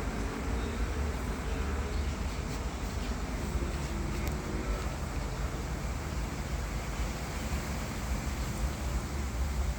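Strong wind blowing against the microphone: a steady rushing noise with a heavy low rumble that flickers up and down.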